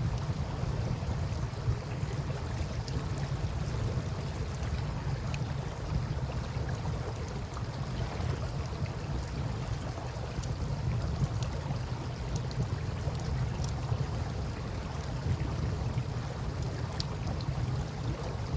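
Wood campfire crackling with scattered faint snaps and pops over the steady wash of flowing river water and a low rumble.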